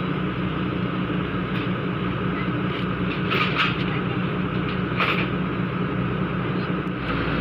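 Komatsu PC200-5 excavator's diesel engine running steadily, with two short bursts of noise about three and a half and five seconds in.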